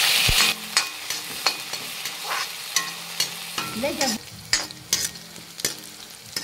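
A tadka of chopped green chillies and garlic greens with cumin sizzles loudly in hot oil in a metal kadhai as it goes in, then fries more quietly while a metal ladle stirs it, scraping and clicking against the pan about every half second.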